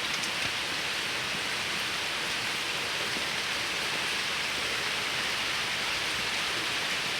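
Steady, even hiss like falling rain, with no knocks or other distinct sounds standing out.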